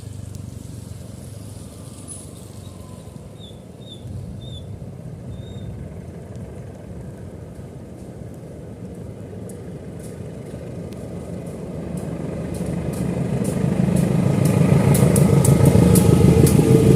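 A motor vehicle engine running steadily, growing louder from about ten seconds in, with short sharp clicks over it.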